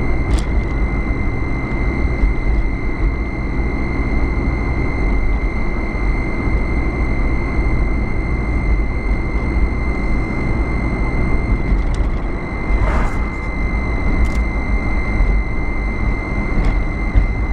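Car driving, heard from inside: a steady rumble of engine and road noise, with a constant high-pitched whine over it.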